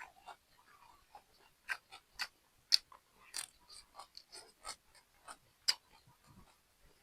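A person eating close to the microphone: irregular wet chewing and lip-smacking sounds over rice, stir-fried octopus and fried dried fish, with a few sharper clicks, the loudest about a third of the way in and near the end.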